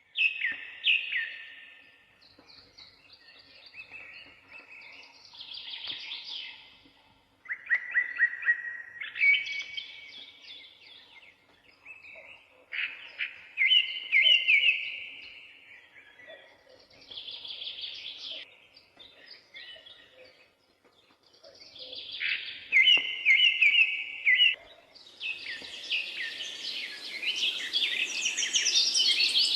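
Birds singing in short, repeated song phrases a second or two long, separated by brief pauses. About three-quarters of the way through, the singing becomes denser and higher, with several birds chirping at once.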